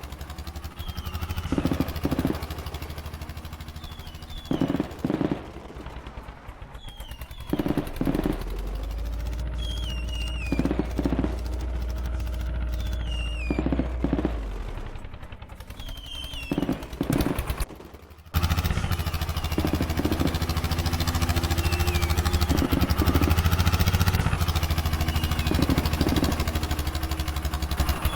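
Modified tractor's diesel engine running with rapid, hard exhaust beats. Its speed rises and falls, and it gets louder about two-thirds of the way through.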